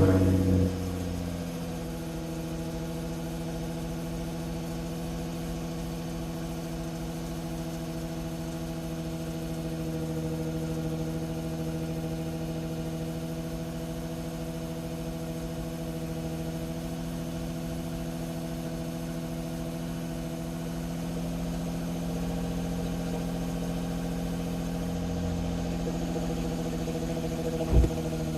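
Nissan V36 Skyline 250GT's 2.5-litre V6 heard through its stock exhaust, settling from the start-up flare within the first second or so into a steady idle. A single brief sharp spike sounds near the end.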